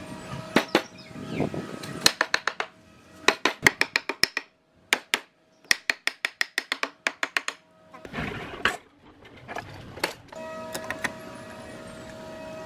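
Runs of quick, sharp knocks, about five or six a second, in several groups through the middle, over a steady hum.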